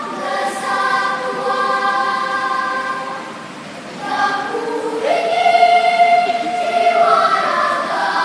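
Children's choir singing sustained notes in several parts, growing softer about three seconds in and swelling louder again a couple of seconds later.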